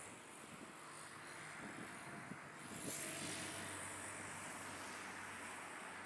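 Faint, steady hum of distant motor traffic mixed with wind, swelling a little about halfway through.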